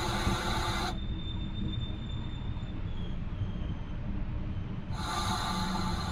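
Bernese Oberland Railway narrow-gauge rack train running on its cogwheel section, a steady low rumble of wheels and drive. Between about one and five seconds in the sound turns muffled, with the higher part dropping away and only the low rumble left, then it comes back in full.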